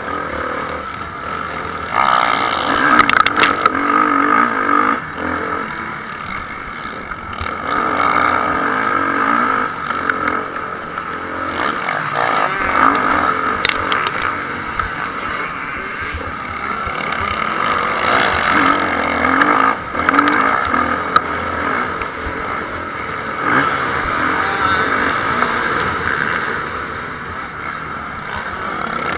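Motocross bikes racing, engines revving hard and falling away as riders accelerate past, in several louder surges, with a few brief sharp clicks.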